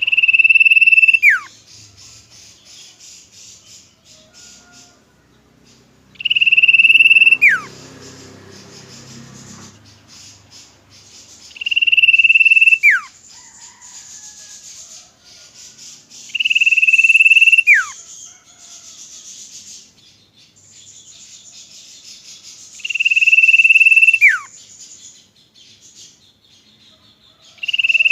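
Common iora singing: a long, loud, steady whistle that drops away in a steep falling slur at the end, repeated about every five to six seconds, with fainter high buzzy chattering in between.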